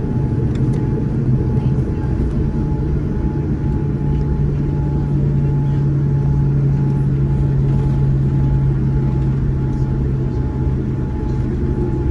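Steady cabin noise inside a Boeing 787-9 with GEnx engines: a loud, even low rumble with a thin steady tone above it.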